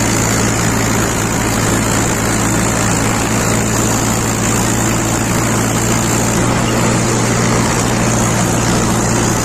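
Tractor engine running at a steady speed: a loud, even low drone with no change in pitch.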